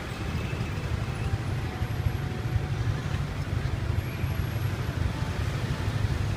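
Riding on a motorbike through city traffic: a steady low rumble of the engine and road noise.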